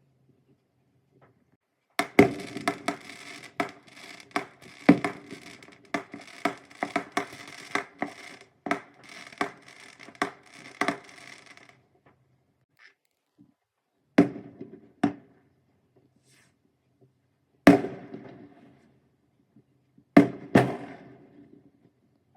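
Fireworks going off: a rapid run of bangs and crackling for about ten seconds, then five single loud bangs, each trailing off in an echo.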